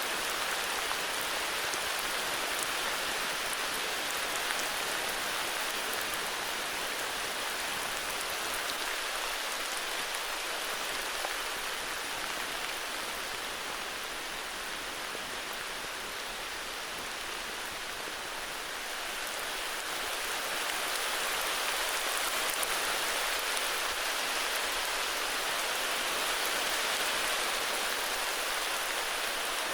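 Steady heavy rain falling, a dense even hiss of drops with faint individual drop ticks, easing slightly in the middle and building again after about twenty seconds.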